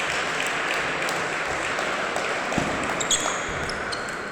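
Audience clapping after a rally, with a table tennis ball clicking and bouncing a few times over it, most clearly about three seconds in.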